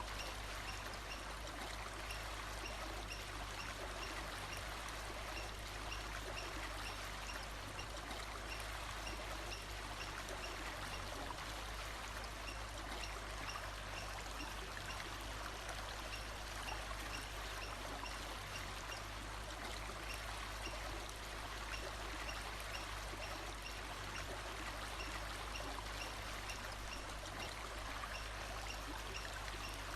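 Stream running steadily, with a faint short high note repeating about twice a second through the first part.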